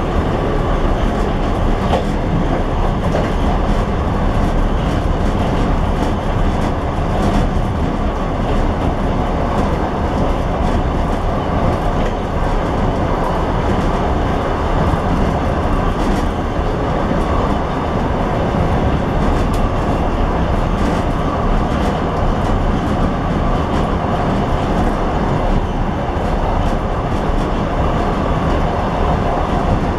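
Train wheels rolling on the rails at speed, heard from inside the last car: a steady rumble with a few faint clicks.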